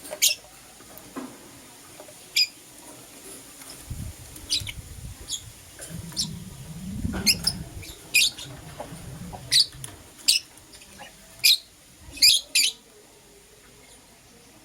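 Lovebirds giving short, sharp, high chirps, a dozen or so scattered irregularly, some in quick pairs near the end. A low rumble runs underneath through the middle.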